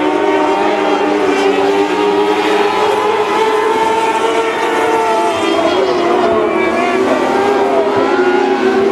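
Several small-engined mini sprint race cars running together, each engine's pitch rising and falling on its own as the cars lap the track.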